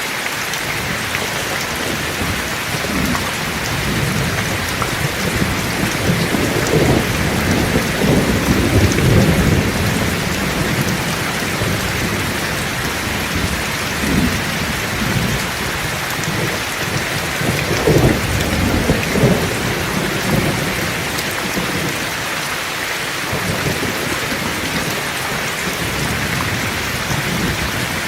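Heavy rain falling steadily, with rolling thunder rumbling underneath. The thunder builds to loud peaks about a third of the way in and again a little past halfway.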